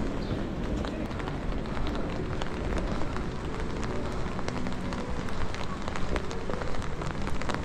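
Steady rain: an even hiss with many scattered drops ticking.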